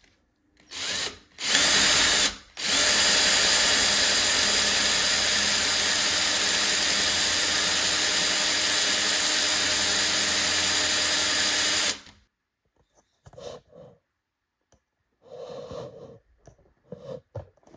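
Power drill deepening a too-shallow hole in a wooden bed part: two short bursts, then about nine seconds of steady running before it stops. A few faint, short noises follow.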